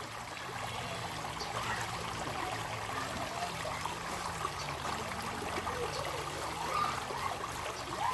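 River water running steadily, with small gurgles throughout.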